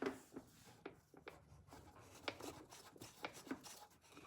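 Faint scattered clicks and light rubbing, as of small objects or tools being handled, with about a dozen short ticks spread irregularly through it.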